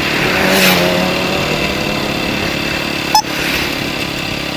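Motorcycle engine running while riding, with a brief rise in pitch about a second in. A single sharp click a little over three seconds in.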